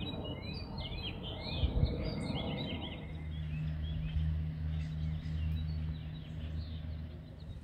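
Songbirds chirping and singing, busiest in the first three seconds and thinner after, over a low steady hum that takes on a steady pitched drone about three seconds in.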